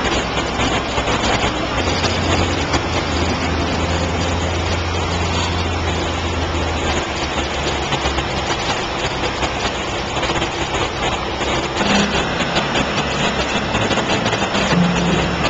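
Boat engine running steadily under way, with a low hum that drops out about halfway through.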